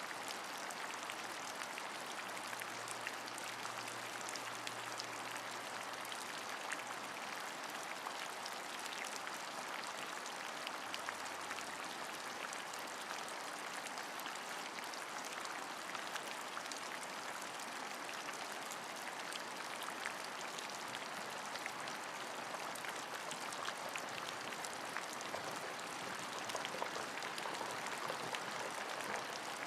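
Steady rain: a dense, even hiss of falling water with many small individual drop ticks scattered through it.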